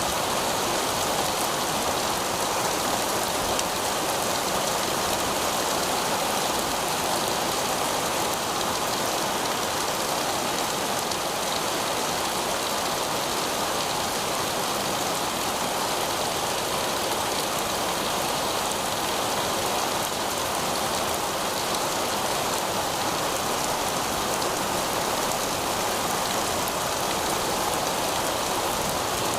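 Heavy rain falling steadily on pavement, a dense even patter and splash.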